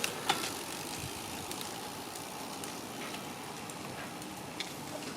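Steady road and wind noise while riding a city bicycle, with a few light clicks and rattles.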